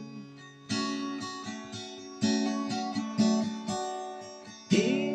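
Acoustic guitar strumming chords between sung lines of a song. There are a few strokes about a second apart, each left to ring and fade before the next.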